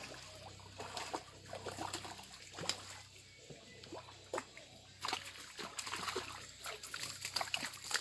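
Water splashing and trickling, with many irregular small clicks and knocks over a faint steady low hum.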